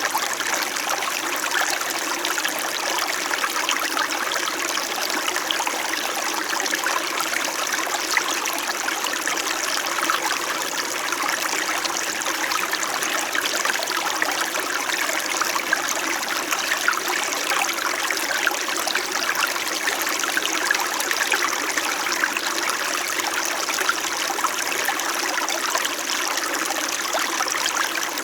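Small winter mountain stream flowing and trickling over stones, a steady babble of running water with many small splashes.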